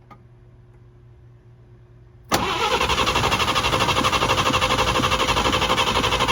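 1948 Chevy truck's inline-six engine cranked over by the starter, starting about two seconds in with a fast, even pulsing, and not catching. The engine is flooded with the choke closed, by the owners' own reckoning, since they smell gas.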